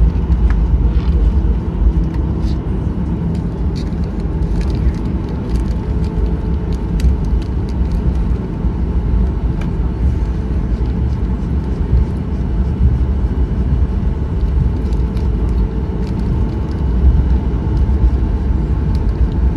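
Steady low rumble inside the cabin of a Boeing 737-800 airliner, with scattered faint clicks and rattles over it.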